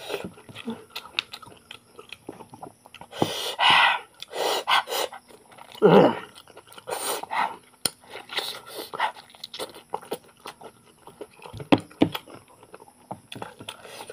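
A man chewing and biting into cooked goat mutton on the bone, eaten by hand with rice, in short irregular bursts of mouth and eating sounds.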